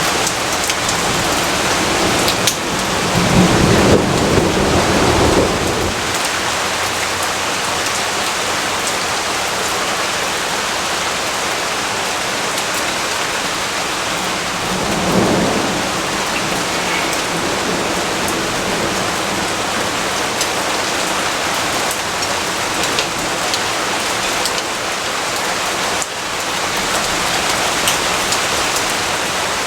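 Steady heavy rainfall hissing without a break. A low rumble of thunder swells a few seconds in and lasts about three seconds, and a shorter, fainter rumble comes about halfway through.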